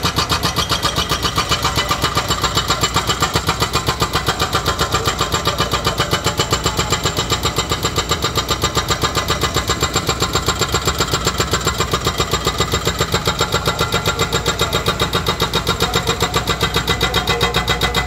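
Excavator-mounted hydraulic breaker hammering steadily, a fast, even run of about five to six sharp blows a second without a pause.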